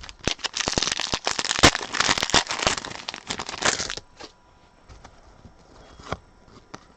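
Crinkly wrapper of a trading-card pack being handled and torn open: a dense run of crackling for about four seconds, then a few scattered clicks.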